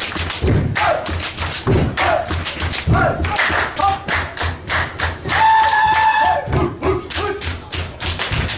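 Rhythmic hand percussion, a steady run of low thumps and sharp taps, with a voice chanting in short sliding phrases and one long held note near the middle.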